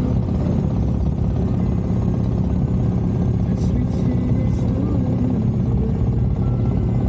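Harley-Davidson V-twin motorcycle engine running steadily while riding, a dense low rumble with a fast, even pulse.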